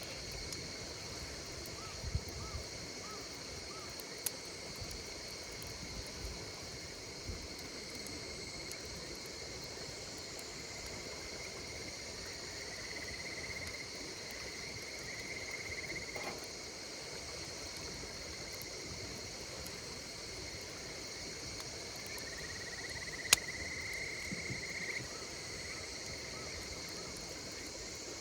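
Insects trilling steadily while a wood campfire crackles with scattered sharp pops, the loudest late on. Twice, a buzzing insect call swells and rises slightly in pitch for a few seconds.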